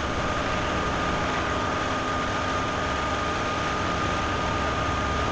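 Fire engine running steadily at a fire scene: a constant engine-and-pump noise with a thin, unchanging whine over it.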